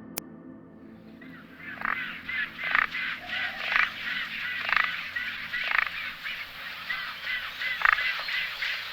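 A flock of waterfowl calling: many overlapping short calls, with louder honks about once a second, starting about a second in.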